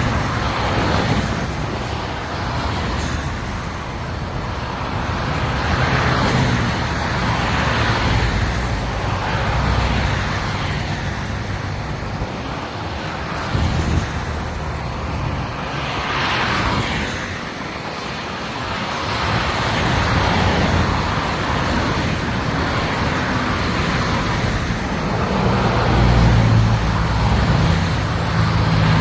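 Highway traffic: steady road and engine noise, with a low engine hum and vehicles swishing past now and then.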